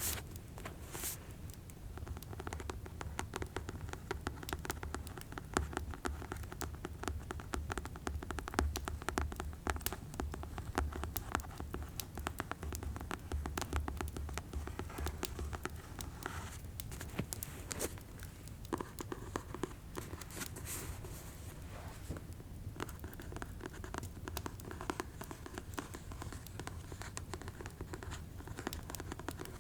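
Fast fingernail and fingertip tapping and scratching on objects, a dense run of quick clicks, with a low rumble underneath for about the first half.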